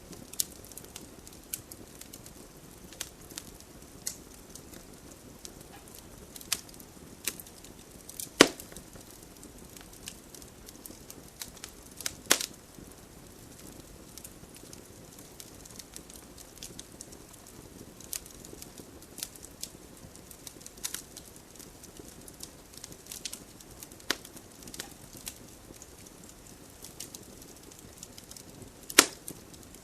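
Wood campfire crackling: a low steady hiss of burning with irregular sharp pops and snaps, three of them louder than the rest.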